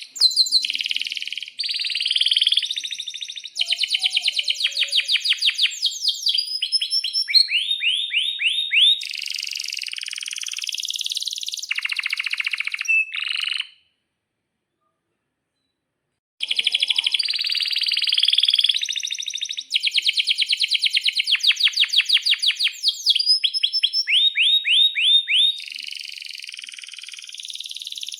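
A male domestic canary singing a long song of fast rolling trills and runs of quick downward-sweeping notes. The song breaks off about halfway through, goes silent for a couple of seconds, then starts again.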